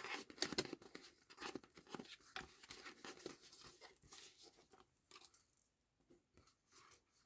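Paper and card stock being handled: a string of faint, quick, irregular crisp crackles and rustles, sparser after about five seconds.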